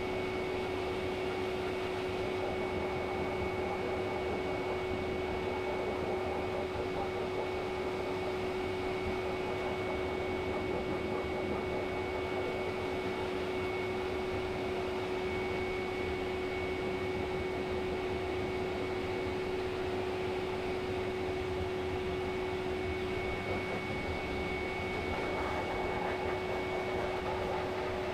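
A small electric motor running steadily, with a constant hum and a thin high whine over an even rushing noise.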